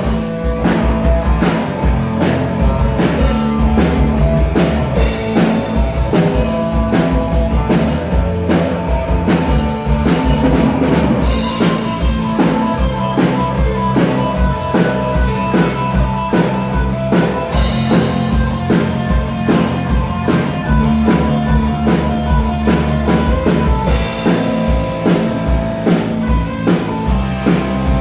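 Live rock band playing an instrumental passage, with a drum kit beating steadily under electric guitar.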